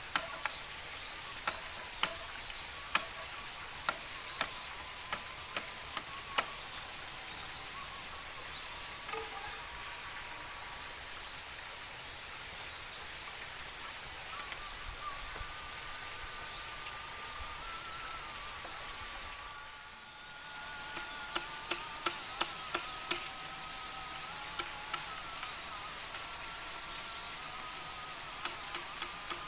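Steady high-pitched chorus of forest insects such as crickets or cicadas, with scattered sharp clicks through the first two-thirds. It dips briefly about two-thirds of the way through, and faint held tones join in afterwards.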